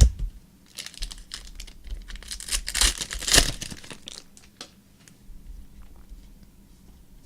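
Trading card pack wrapper being torn open and crinkled, a run of rustling tears loudest in the middle, after a sharp click near the start.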